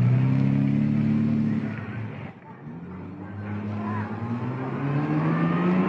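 Sports car engines accelerating away, the engine note climbing. It fades out about two seconds in, then another car's engine rises and climbs.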